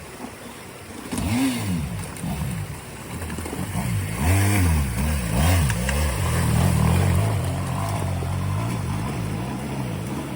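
Motorbike engine revving up and falling back several times, then running at a steadier pitch for the second half.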